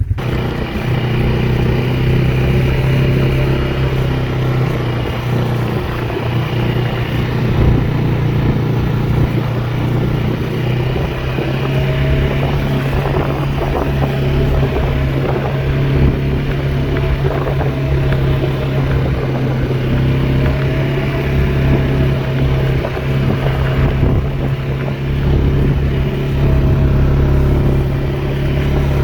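Four-wheeler (ATV) engine running steadily, a constant low hum with no big changes in revs.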